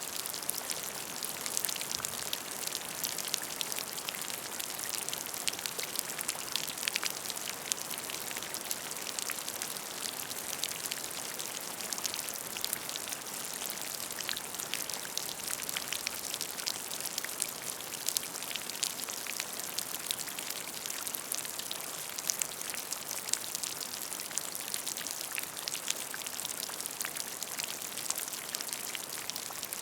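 Rain falling steadily onto a puddle of water, a constant hiss dotted with many crisp individual drop splashes.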